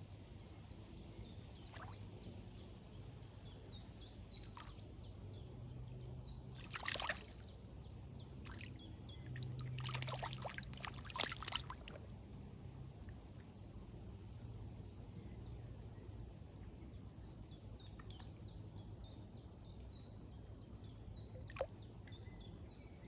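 Quiet pond-side ambience with faint bird chirps and a steady low hum, broken by brief water splashing about seven seconds in and again for a couple of seconds around ten to twelve seconds in, then a single sharp click near the end.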